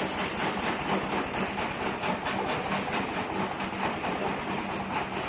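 A heavy machine running with a continuous, rapid rattling clatter over a steady low hum.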